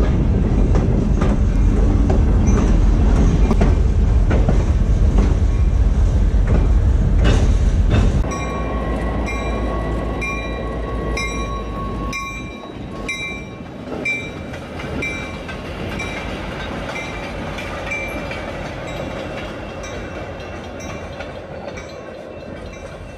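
Train running on the track: a loud low rumble with the clickety-clack of wheels over the rails, which cuts off suddenly about eight seconds in. After that, beside a yellow diesel locomotive, a quieter steady hum with a ringing tone repeating about every 0.7 s, fading away toward the end.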